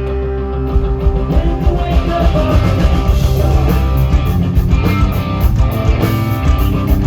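Rock band playing live with electric guitars and a drum kit. A held chord rings for about the first second, then the drums come in with a steady run of cymbal hits under the guitars.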